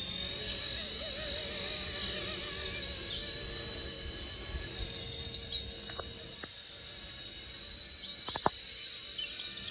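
Small electric RC helicopter, an MD500-scale RC ERA C184, hovering with a steady high motor and rotor whine. Birds chirp in the background, and a few sharp ticks come around the middle and near the end.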